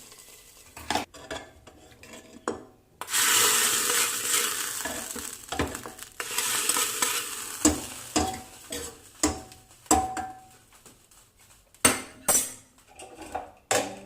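Hot coconut-oil tempering of mustard seeds poured into a chicken curry: a sudden sizzle about three seconds in that fades over a couple of seconds, a second sizzle around six seconds in, and a ladle knocking and scraping against the pot.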